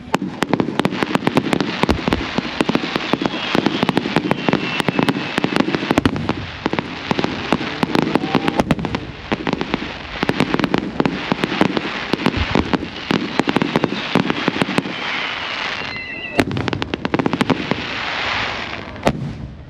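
Fireworks bursting in rapid succession: a dense, continuous crackle of sharp pops over deeper booms, starting and stopping abruptly.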